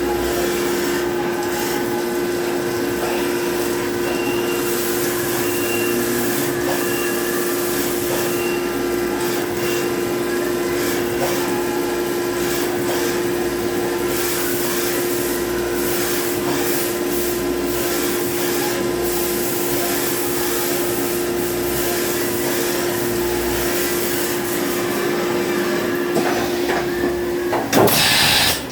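CNC machining center running a drilling operation: a steady machine drone with a constant hum over a noisy whir. A brief loud rushing burst comes near the end.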